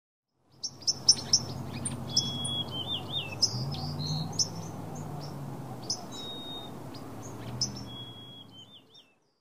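Birdsong: several birds chirping, with a whistled note that ends in a wavering trill, heard twice, over a low steady background hum. It fades in just after the start and fades out near the end.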